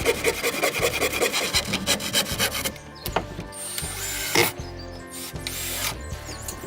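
Quick, even scraping strokes on wood, about eight to ten a second, stopping about three seconds in, followed by two longer single scrapes, over background music.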